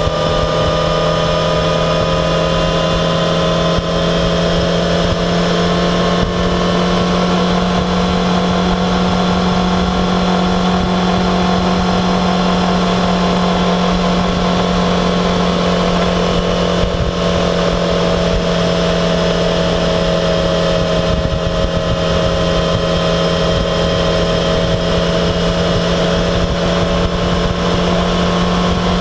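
Yamaha XJ6F's 600 cc inline-four motorcycle engine at a steady cruise, its pitch drifting slowly up and down with speed, over a steady rush of wind and road noise.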